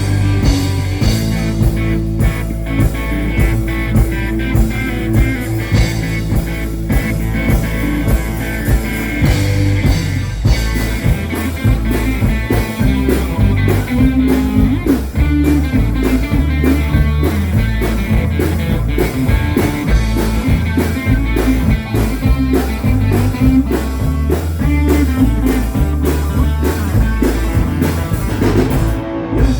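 Live rock band playing a blues-rock instrumental passage: guitar over a stepping bass line and a steady drum kit beat.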